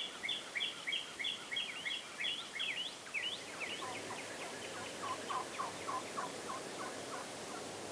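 Bird calls at dawn: a rapid run of short, high, repeated notes that fades after about three seconds, followed by a slower series of lower, down-slurred notes.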